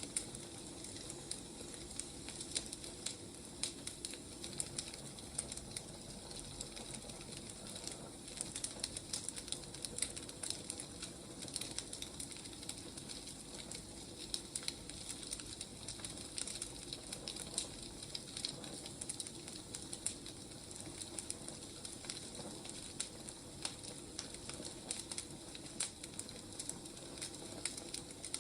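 Burning firewood crackling, with frequent irregular pops over a steady soft hiss.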